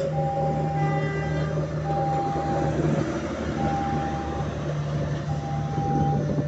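Passenger train coaches rolling past over a level crossing with a steady low rumble, while the crossing's warning signal sounds a repeated beeping tone, on for just under a second and off for about as long.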